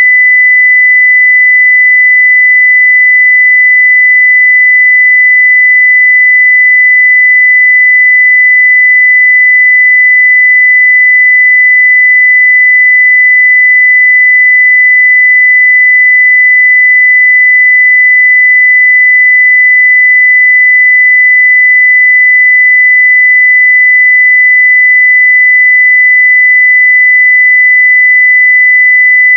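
A 2 kHz sine-wave test tone at full scale (0 dB), one steady high-pitched pure tone with no change in pitch or level.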